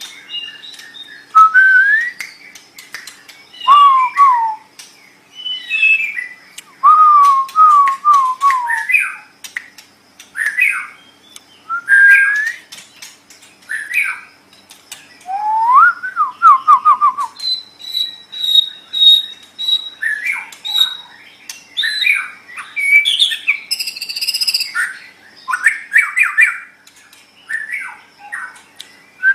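White-rumped shama (murai batu) singing a varied string of loud whistled phrases: rising and falling slurs and quick trills. About two-thirds through comes a run of repeated high notes, followed by a harsh buzzy note.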